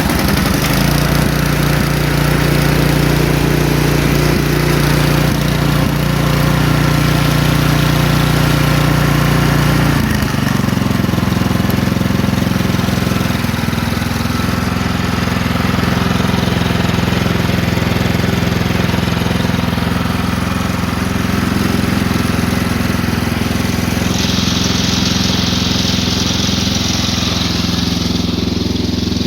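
The engine of a new Ariens Deluxe 24 snowblower, just started cold with the choke partly off, running steadily on its first run. About ten seconds in its note changes as it settles, and for the last few seconds a higher hiss joins the engine sound.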